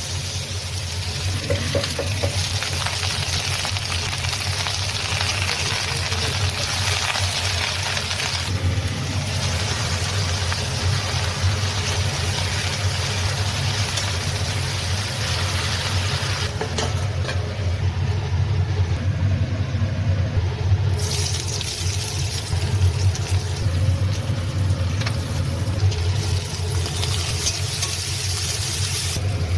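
Oil sizzling in a kadai as chopped ridge gourd and then chana dal fry and are stirred with a spatula, over a steady low hum. The sizzle changes abruptly a few times.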